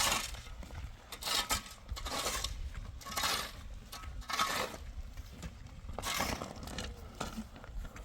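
Irregular scraping strokes mixed with metallic clinks, like hand tools working on hard material.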